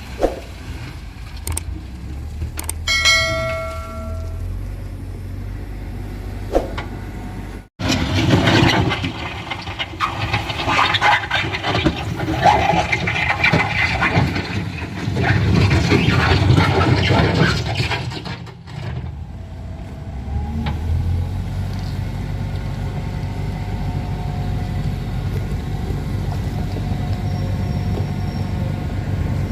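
Truck engines working up a steep climb: a steady low engine drone with a brief horn note about three seconds in. After an abrupt cut, a louder, rougher stretch of engine and road noise lasts about ten seconds, then settles back to a steady low drone.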